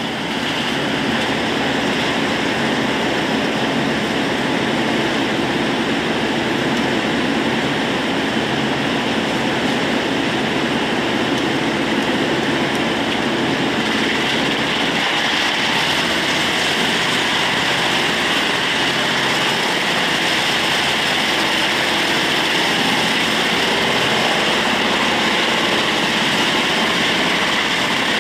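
Ufkes Greentec 952 Mega wood chipper running steadily at working speed, a loud continuous machine noise with a deeper low-end rumble from about 15 seconds in.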